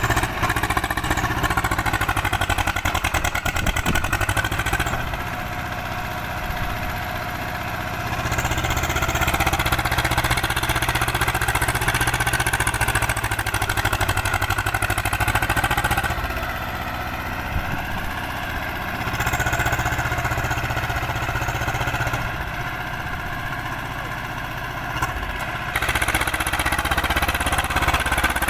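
Swaraj 724 XM tractor's diesel engine running steadily, its level dropping and coming back several times.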